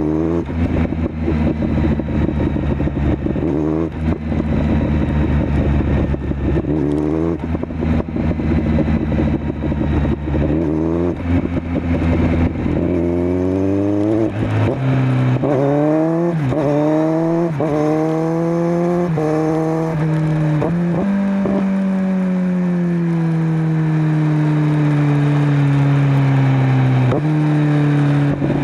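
Kawasaki Z900's inline-four engine through a LeoVince LV10 slip-on exhaust. It pulls at low revs at first, then from about halfway accelerates through several quick upshifts, its pitch rising and breaking at each gear change. After that the revs fall slowly and steadily as the bike rolls off.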